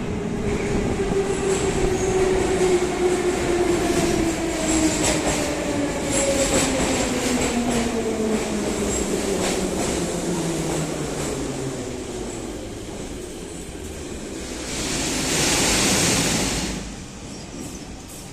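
Leningrad-built 81-717 'nomernoy' metro train running and slowing, its traction motor whine falling steadily in pitch over the rumble of the wheels on the rails. About three-quarters of the way through, a loud hiss lasts about two seconds, then the noise drops.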